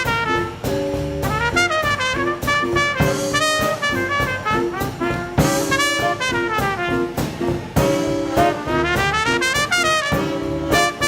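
Live swing band playing an instrumental passage: a horn section of trumpet, trombone and saxophone in short repeated chords, over drums and bass.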